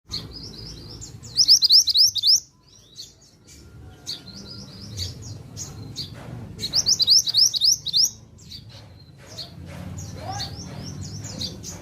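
Mantenan (bushchat) singing vigorously: two loud runs of quick, rising high-pitched chirps, about a second and a half in and again around seven seconds, with softer twittering between.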